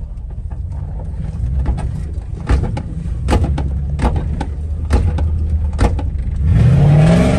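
Chevrolet Silverado pickup's LS V8 running low and steady inside the cab, with a row of sharp clicks a little under a second apart. Near the end the engine revs up hard, its pitch climbing as the truck accelerates.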